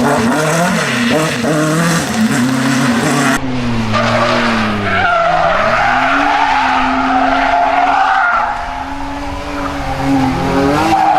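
Rally car engines revving hard, their pitch repeatedly climbing and dropping through gear changes. The sound changes abruptly about three and a half seconds in, as from one car to another, then holds a steadier note before rising again near the end.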